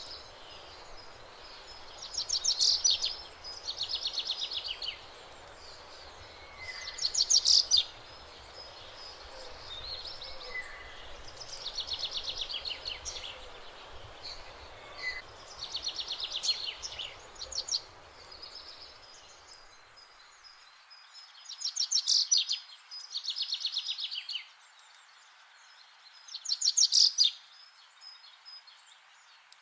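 Songbirds singing: short phrases of quick repeated high notes, one every two to four seconds, over a low outdoor rumble that drops away about two-thirds of the way through.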